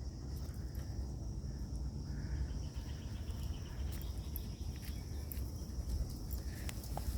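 Strong wind buffeting the microphone as a steady low rumble, with a steady high-pitched insect drone over it.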